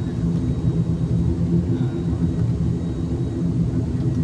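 Steady low engine drone of an airliner heard from inside the passenger cabin, with a faint thin high whine over it.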